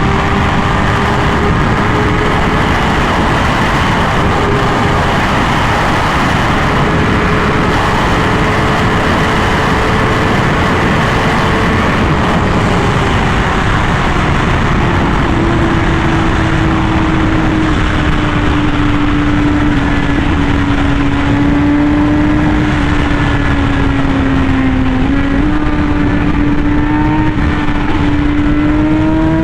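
Honda Fireblade CBR1000RR-R SP's inline-four engine running hard at a steady high rev through an SC Project titanium exhaust, under a constant rush of wind noise. Its pitch drops about halfway through and then holds at the lower note.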